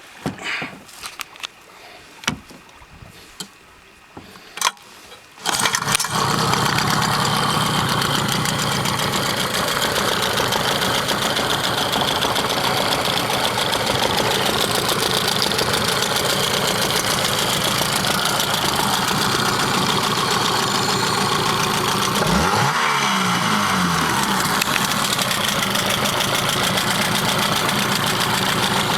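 Yamaha 15 hp outboard motor: a few clicks and knocks, then the engine catches about five and a half seconds in and runs steadily, with a short sweep in pitch about three quarters of the way through.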